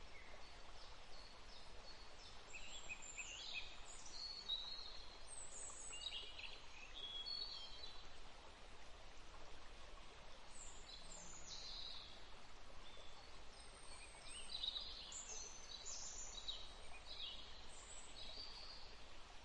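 Small songbirds chirping in quick high calls, in two spells of busy chirping with a lull between them, over a faint steady background hiss.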